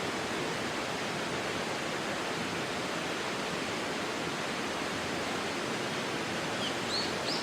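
Steady outdoor rushing hiss, even throughout, with a few faint short bird chirps near the end.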